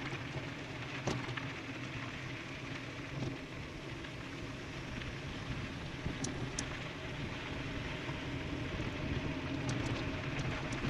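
Steady rush of wind and tyre noise from an e-bike riding fast downhill, with a low hum underneath and a few sharp clicks, more of them near the end.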